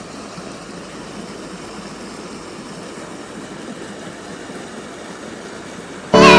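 Steady outdoor rushing noise, even and unchanging. Loud piano music starts suddenly near the end.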